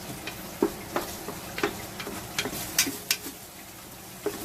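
A spatula or spoon knocking and scraping against a frying pan in irregular clicks while chopped onion, garlic and chili paste are stirred, over a steady low sizzle.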